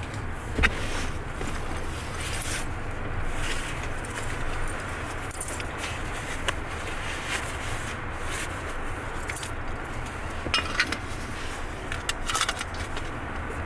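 Keys jangling in short, irregular bursts over the steady low hum of a car.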